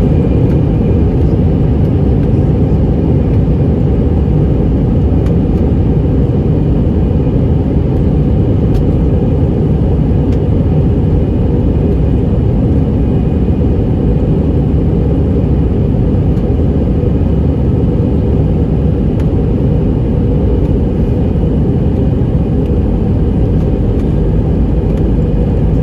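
Steady, loud rumble of an Airbus A319's twin jet engines and airflow during takeoff, heard from inside the passenger cabin.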